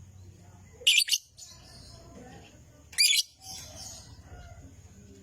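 Lovebird chirping: two short, shrill bursts of calls about two seconds apart, over a faint steady high hiss and low hum.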